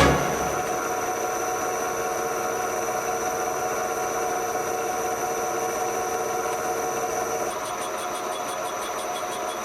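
A machine running steadily, a constant hum with a thin high whine over it; the hum drops out about seven and a half seconds in.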